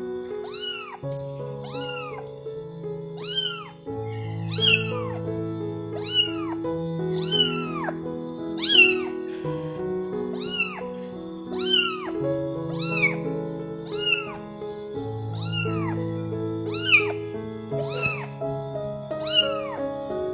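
A young Angora-mix kitten meowing over and over, about one high call every second or less, each rising and then falling in pitch: distress calls for its mother. Background music with sustained notes plays underneath.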